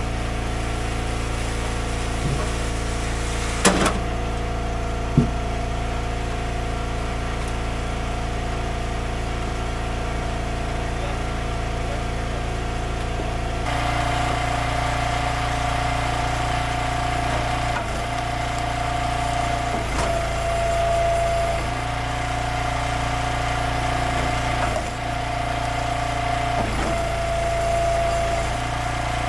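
Small gasoline engines running steadily during firewood splitting and bucking, with two sharp knocks early on. About halfway through, a second, higher engine tone joins and the sound grows brighter.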